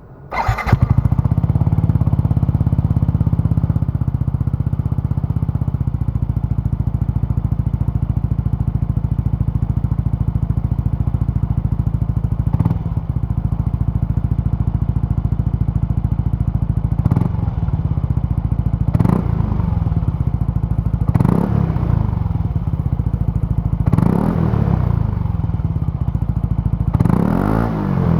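Yamaha NMAX125 scooter's single-cylinder 125 cc four-stroke engine, breathing through a BEAMS CORSA-EVO II heat-titanium aftermarket muffler. It starts about half a second in and idles steadily, then is blipped about six times in the second half, each blip rising and falling back to idle.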